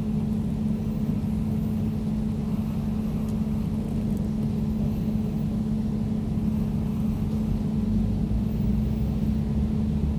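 Air conditioner running steadily: a low, even hum over a rumble, with no change throughout.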